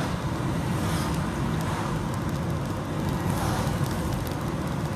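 Steady road and vehicle noise, a low rumble with hiss.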